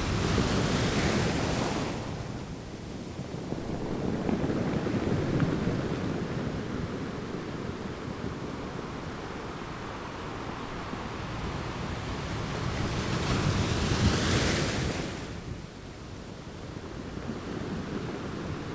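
Sea rushing past a moving cruise ship, with wind blowing on the microphone. There are louder rushing swells near the start and again about fourteen seconds in.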